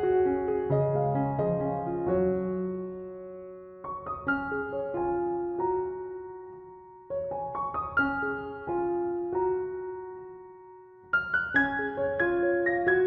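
Soft background piano music: gentle phrases of struck notes that ring and fade, starting again about every three to four seconds.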